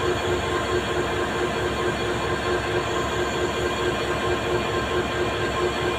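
Moving train running steadily: a continuous rail rumble with several steady whining tones held over it.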